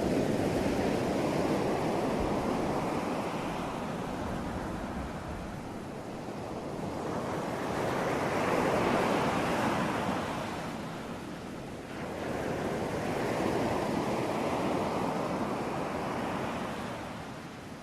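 Ocean surf: waves breaking and washing in, swelling and easing in three slow surges, with no other sound.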